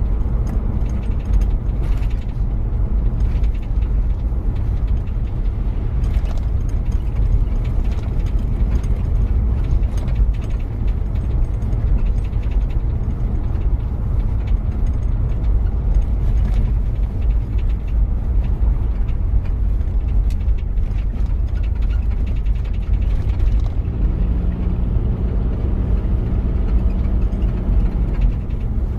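The diesel engine of a 1993 Toyota Prado 4x4 running under way, a steady low drone with light rattles and clicks throughout. A steadier humming tone rises out of it for a few seconds near the end.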